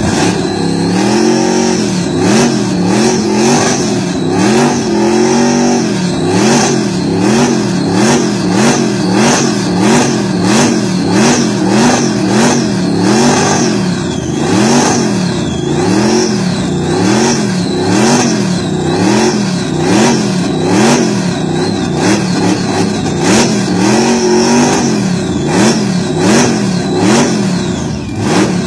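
A Buick's engine being revved loudly over and over, its note swooping up and falling back about once a second as the throttle is blipped, with a few longer, held revs near the start and again near the end.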